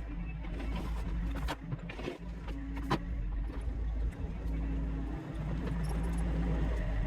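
Heavy-equipment engine running steadily, its pitch shifting now and then, with a couple of sharp knocks, the clearest about three seconds in.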